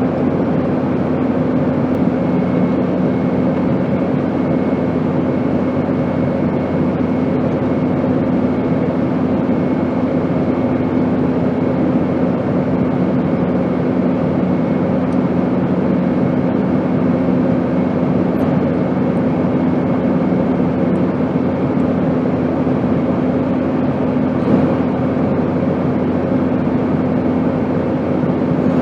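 Steady airplane drone: an even rushing noise with a low hum held underneath and a faint high whistle. A second, slightly lower hum fades out about two-thirds of the way through.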